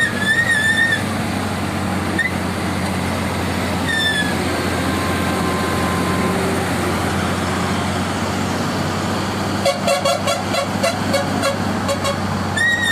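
Heavy truck engine running steadily, with a short high-pitched horn blast at the start and another brief one about four seconds in. About ten seconds in, a lower tone pulses rapidly for a couple of seconds.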